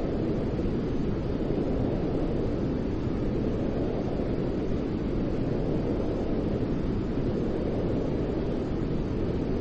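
Steady low rushing noise, deep and muffled, with most of its weight in the low end and no change over time: the continuous noise track of a baby-sleep white noise recording.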